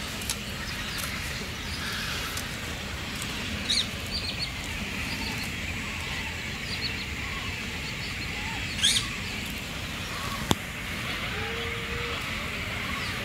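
Birds calling in short, high chirps, loudest about four and about nine seconds in, over steady background noise, with a single sharp click about ten and a half seconds in.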